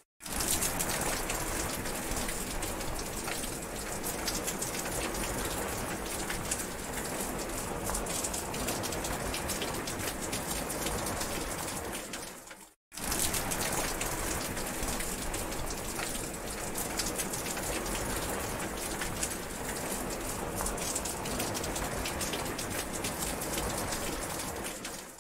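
Heavy rain falling steadily, a dense hiss of countless drops. About halfway through it cuts out for a moment and starts again.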